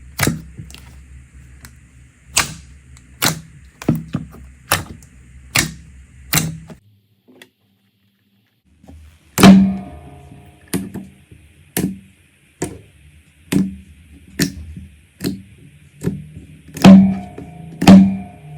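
Slime being pressed and poked, making crisp popping clicks about once a second, with a short silent break about seven seconds in before the pops resume with a duller thud under some of them.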